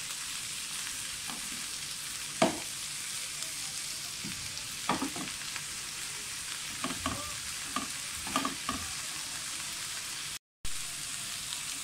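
Skewered chicken tikka malai boti frying in oil in a shallow pan: a steady sizzling hiss, as the marinade has cooked dry and the oil has separated out near the end of cooking. A few sharp clicks and knocks come through, the loudest about two and a half seconds in, as the skewers are handled against the pan. The sound drops out for a moment near the end.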